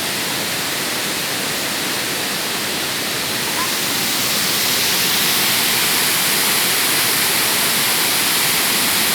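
Waterfall rushing, a loud, steady roar of falling water that grows a little louder about four seconds in.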